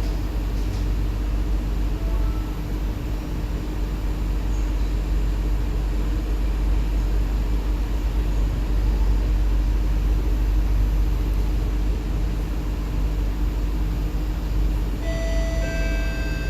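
Steady hum and rumble inside an SMRT C151B train car standing at a station with its doors open. About a second before the end, a multi-tone door-closing chime starts.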